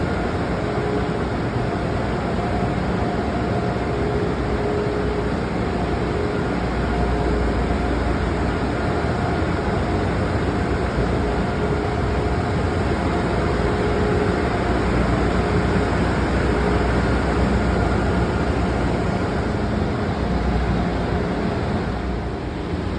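Steady rumble and hum of an Acela Express train idling at a station platform, with a faint steady tone running through it.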